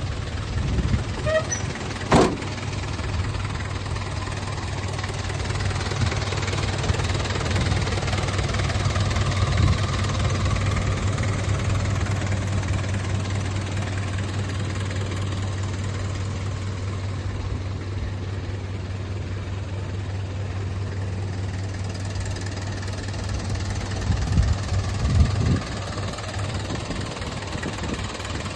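1994 Mitsubishi Canter's 4D36 four-cylinder diesel engine idling steadily. A sharp knock sounds about two seconds in, and there are a few brief louder thumps near the end.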